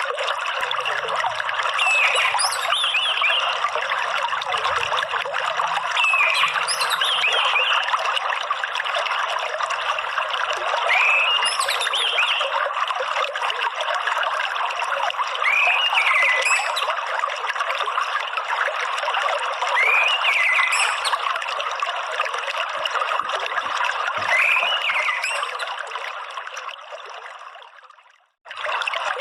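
Steady trickling water with a short whistled orange-headed thrush call repeated about every four to five seconds, a lure recording meant to prompt a caged thrush to sing. The sound fades out near the end, drops to silence, and starts again.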